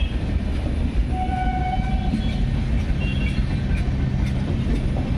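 Passenger express train rolling past at slow speed: a steady low rumble of wheels on track with faint clicks, and a brief high tone about a second in.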